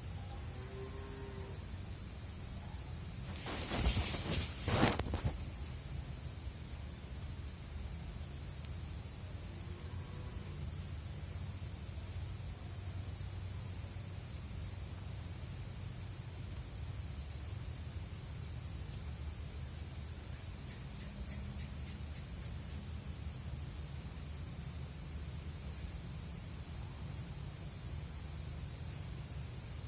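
Night insects, crickets among them: a steady high-pitched drone with groups of short chirps repeating throughout. A brief loud noise, twice in quick succession, about four seconds in.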